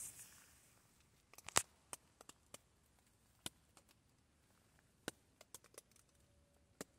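Faint, irregular sharp clicks and crackles, about a dozen scattered through, the loudest about one and a half seconds in.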